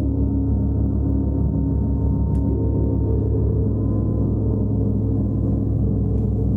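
A gong sounding in a continuous low wash of many overlapping, slowly shifting tones, with a steady pulsing in the bass.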